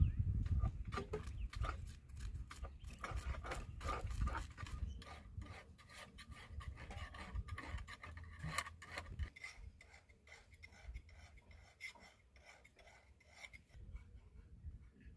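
Rapid, repeated scraping and rasping strokes, louder in the first half and fainter after about nine seconds.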